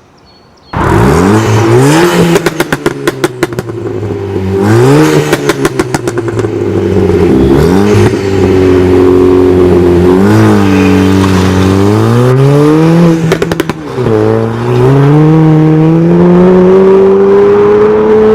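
Ford Fiesta ST MK7's turbocharged 1.6 EcoBoost four-cylinder accelerating hard through the gears. It starts suddenly about a second in, the revs climbing and dropping back at each upshift, four times. Rapid exhaust pops and crackles come around the shifts.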